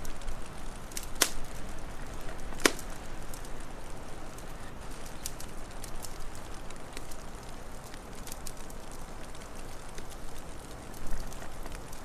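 Wood fire crackling, with two sharp pops in the first three seconds and scattered fainter crackles over a steady low rush.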